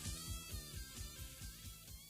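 Rock band music fading out: electric guitar over a quick, even drum-and-bass beat, growing steadily quieter.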